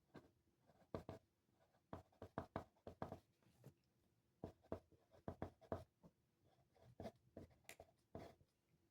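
Handwriting on paper: a quick run of short strokes in groups, with brief pauses between them.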